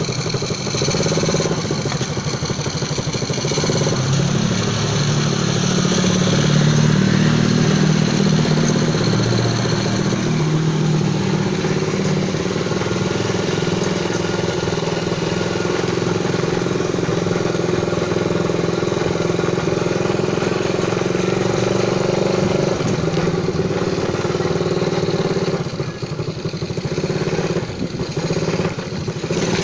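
A minibike's Zongshen ZS152FMH 108 cc four-stroke engine running steadily, a little louder for a few seconds early on, with brief drops in level near the end.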